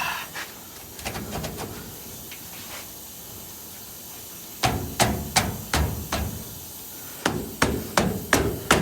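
Hammer blows on the steel frame of a 1955 Chevy truck, knocking at a stuck part. Two runs of sharp strikes, about three a second, start a few seconds in with a short pause between them.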